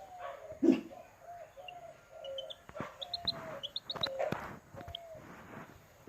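Chicken clucking in a string of short, slightly falling calls, with short high chirps from another bird in the middle. A loud thump comes about a second in.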